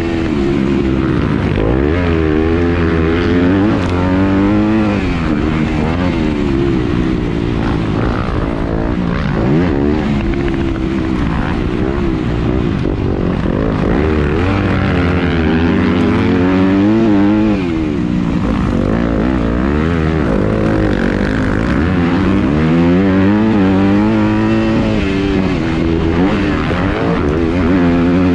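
Yamaha YZ250F single-cylinder four-stroke motocross engine heard from on board, revving up and falling back again and again as the bike accelerates and slows, its pitch climbing and dropping every few seconds.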